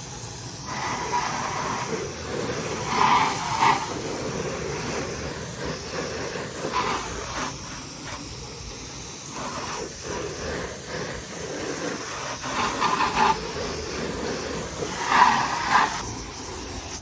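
Water spraying from a hose onto a car's body, rinsing off soap in a steady hiss that grows louder for a moment several times as the spray moves over the panels.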